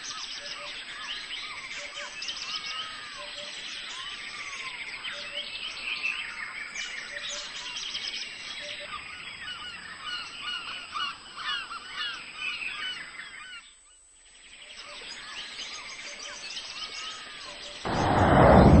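A dense chorus of many birds calling at once, short overlapping calls rising and falling in pitch. It fades out briefly about three-quarters of the way through, then returns, and a sudden loud burst of sound starts near the end.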